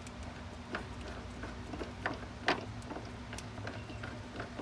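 Scattered light clicks and taps of tools and hardware being handled during hands-on work, the sharpest about two and a half seconds in, over a steady low hum.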